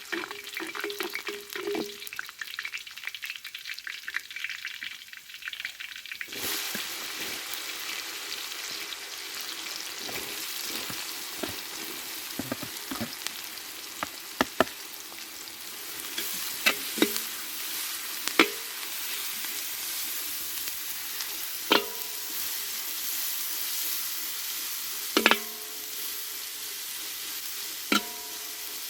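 Food frying in hot oil in a pan: a steady sizzle that swells suddenly about six seconds in and again a little later. A few sharp clinks with a brief ring are heard now and then, like a utensil striking the pan.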